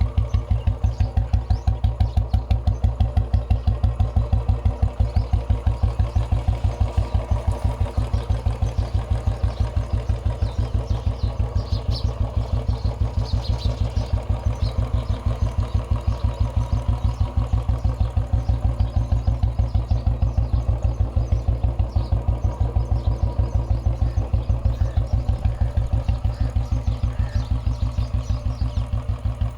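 Royal Enfield single-cylinder motorcycle engine idling, its exhaust giving an even, rapid train of beats that holds steady throughout.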